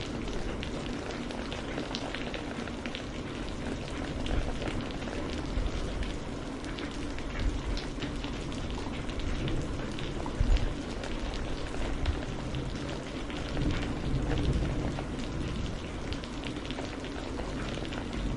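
Steady rain falling, with many separate drops pattering close by over a low rumble that swells louder a few times.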